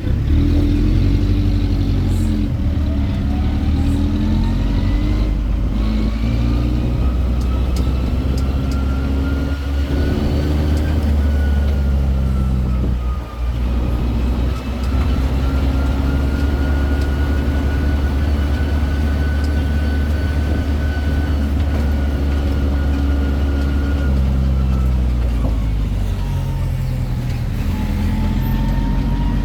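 Tourist road train's engine running under way: a steady low engine drone with a thin whine that rises in pitch over the first ten seconds as it gathers speed, holds steady, then falls near the end as it slows.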